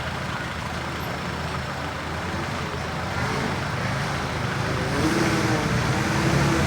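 Heavy earthmoving vehicle's engine running steadily, growing gradually louder as it works or approaches.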